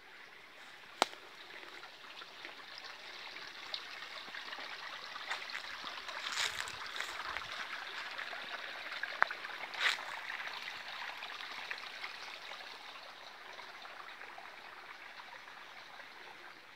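Small mountain stream babbling, swelling toward the middle and easing off near the end, with a few sharp clicks over it.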